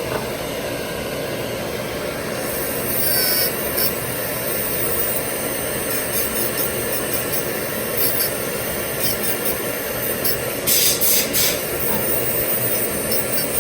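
Dental laboratory rotary handpiece grinding and contouring teeth of a full-mouth restoration. A steady motor whir runs throughout, with bursts of high-pitched grinding hiss from about two and a half seconds in and again near eleven seconds, where the bur meets the material.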